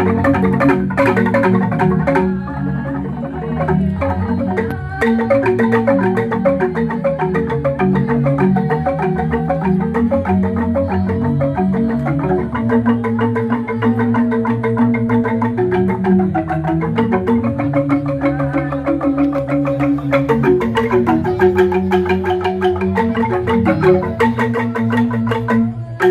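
Balinese jegog gamelan of tuned bamboo-tube xylophones playing fast interlocking mallet patterns over deep, sustained bass tones.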